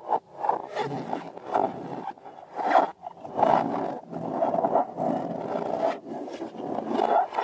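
Rubber balloons squeaking and groaning as they are rubbed and squeezed by hand, in irregular swells.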